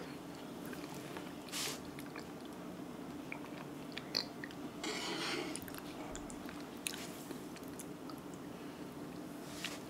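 Close-up mouth sounds of a person eating soft nurungji (soaked scorched rice) from a wooden spoon: quiet chewing with a few short clicks and smacks scattered through, over a faint steady hum.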